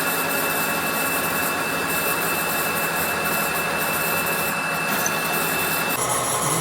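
Steady workshop machinery running with a thin, high, steady whine over a dense noise. Near the end the whine cuts off and the sound changes abruptly.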